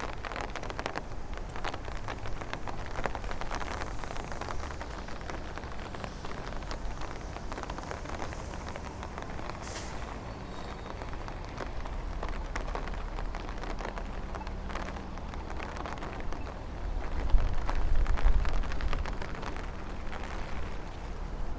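Rain falling on the street, with many individual drops ticking, over steady city traffic. A low rumble swells about seventeen seconds in and fades a couple of seconds later.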